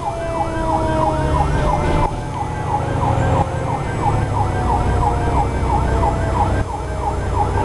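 Fire engine's electronic siren on a fast yelp, rising and falling about three times a second, with a steadier siren tone slowly dropping in pitch beneath it, over the truck's engine rumble.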